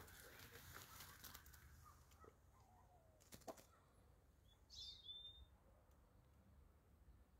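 Near silence: a few faint clicks from the wooden trap cage being handled, and one short bird chirp that slides down in pitch about five seconds in.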